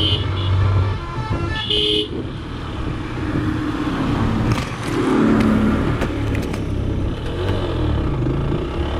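Lifan KPR 165R single-cylinder motorcycle engine running at low speed over a rough, broken road, with a short vehicle horn toot about two seconds in and scattered knocks in the middle.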